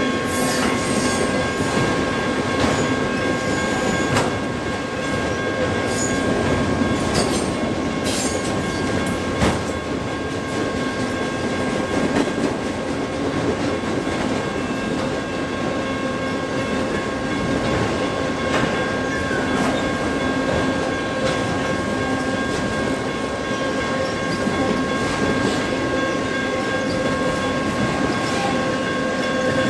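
Freight train of autorack cars rolling past at a steady speed: continuous rumble of steel wheels on rail with scattered clicks and knocks from the wheels and couplers, and a steady high ringing tone held over it throughout.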